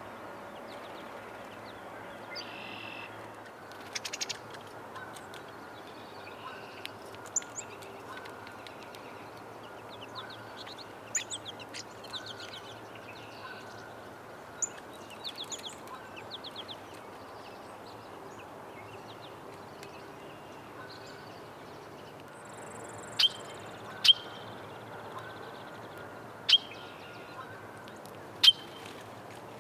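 Backyard birds chirping and calling, short high chirps scattered throughout, over steady background noise. Four loud, sharp calls in the last several seconds are the loudest sounds.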